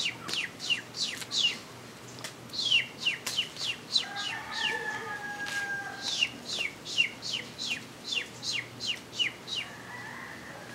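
Bird chirping: rapid series of high, sharply falling chirps, about four or five a second, in three bouts, with a steady held call lasting about two seconds in the middle.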